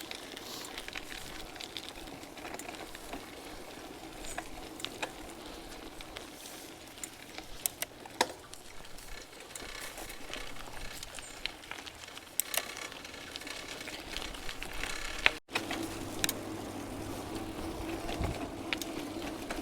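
Bicycles being ridden over a rough track: steady tyre and wind noise with scattered rattles and clicks from the bikes. The sound drops out for an instant about fifteen seconds in.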